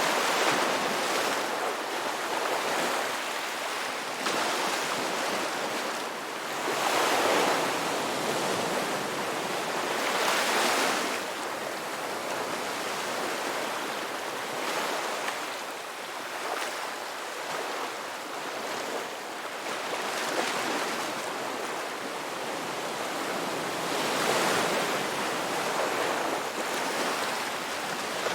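Ocean surf: waves breaking and washing on the shore in a continuous hiss, which swells louder at uneven intervals of a few seconds as each wave breaks.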